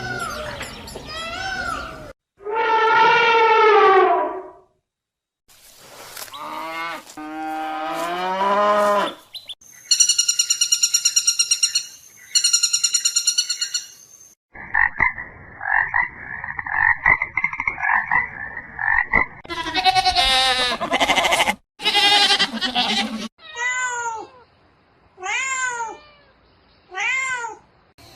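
A string of different animal calls, edited one after another with abrupt changes: a long drawn-out call, then rising and falling cries, then fast high pulsing trills and lower pulsing calls. Near the end come four short arching calls about a second and a half apart.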